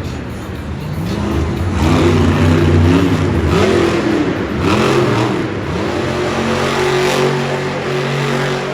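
Monster truck's supercharged V8 engine revving up and down over and over as the truck spins donuts, then holding a steady note for the last few seconds.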